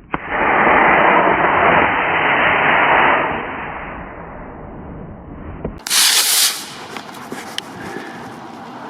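Model rocket motor igniting on the pad and burning with a loud rushing roar for about three seconds, then fading away as the rocket climbs. A short, loud rush of noise follows about six seconds in.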